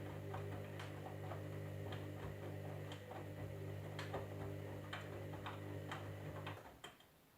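Candy washing machine running: a steady electric hum with irregular light ticks and clicks over it. The hum cuts off about six and a half seconds in, followed by a couple of last clicks.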